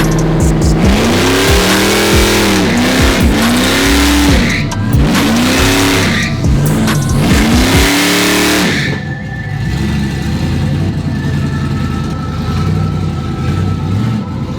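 A truck engine revving hard, its pitch rising and falling about five times in a row with a loud hiss over it, then dropping to a quieter steady run about nine seconds in.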